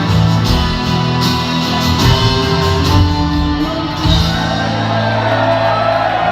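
Live rock band with guitars and drums playing the closing bars of a song, with some shouting from the crowd. The drums stop about four seconds in, leaving a held chord ringing out.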